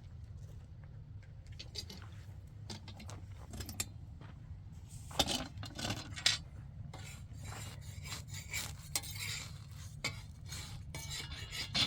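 Irregular scraping and rubbing with light clinks, as of objects being handled, over a steady low rumble.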